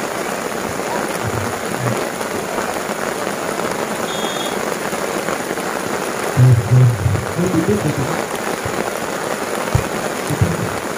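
Heavy rain falling, a steady hiss, with a few brief low thumps about six to seven seconds in and again near the end.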